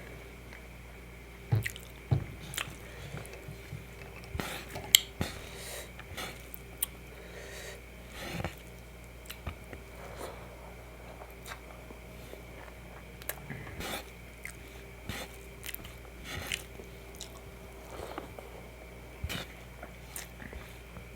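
Close-miked eating sounds: chewing and biting with wet squishes and irregular sharp clicks, the loudest about five seconds in, over a faint steady hum.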